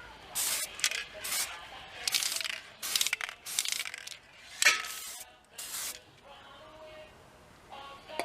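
A series of about eight short, harsh hissing or scraping strokes, irregularly spaced over the first six seconds, then quieter.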